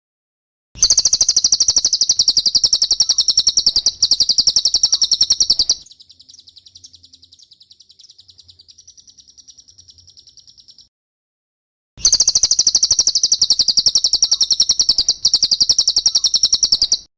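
Cililin bird song: a loud, very fast high-pitched trill held for about five seconds, then a softer twittering, a short pause, and another five-second trill near the end.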